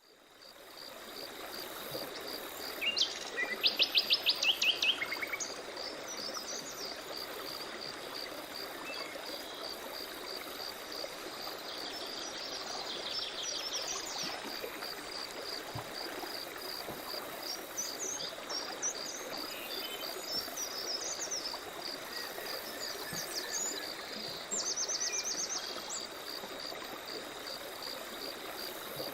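Forest ambience with songbirds singing, the loudest being rapid trills of repeated high notes that come three times, over a steady high-pitched pulsing call repeating about three times a second and an even background hiss. It fades in at the start.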